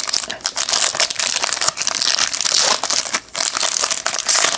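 Trading card pack wrapper being torn open and crinkled by hand, a dense, loud crackling with many small sharp crackles.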